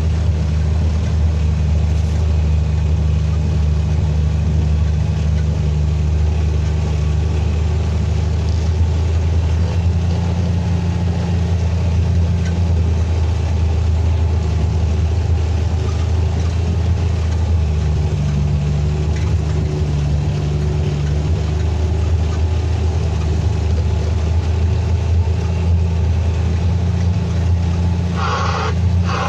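Mack truck's diesel engine running steadily, a low continuous drone with little change in pitch.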